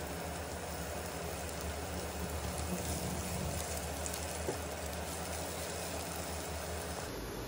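Chopped garlic and onion sizzling steadily in hot oil in a ceramic-coated frying pan as they are stirred, over a steady low hum. A light tap is heard about halfway through.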